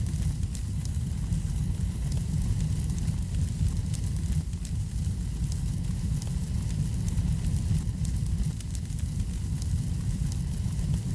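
Wood fire in a fireplace burning, a steady low rumble of the flames with frequent small crackles and pops throughout.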